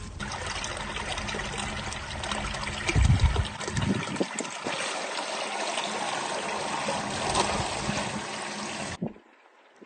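Water trickling and splashing steadily, with a low thump about three seconds in; it cuts off suddenly near the end.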